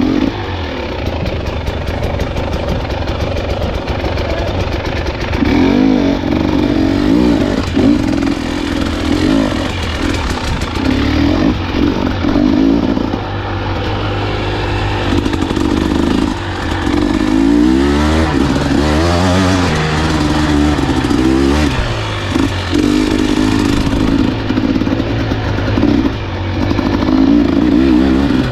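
Husqvarna enduro dirt bike engine being ridden, the revs rising and falling over and over as the throttle is worked.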